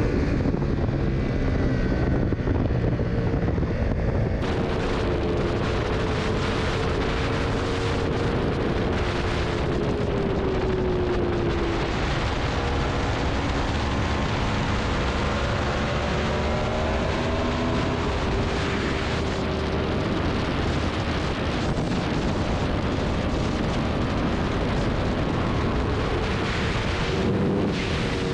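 Sport motorcycle engine running at speed, its pitch rising and falling as the revs change, under heavy wind rush on the microphone.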